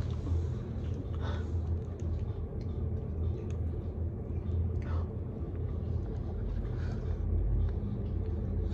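Steady low rumble of background noise, with a few faint short noises about a second and five seconds in.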